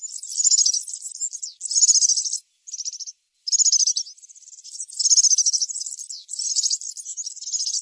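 European serin singing: a long run of very high, rapid, jingling trills in quick phrases, broken by a few brief pauses.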